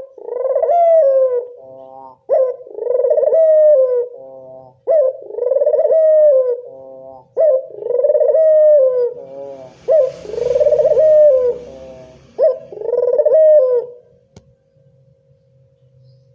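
Puter dove cooing: six repeated coo phrases, each a short note then a long wavering coo, about every two and a half seconds, stopping about fourteen seconds in. A faint steady hum runs underneath, with a single click just after the cooing ends.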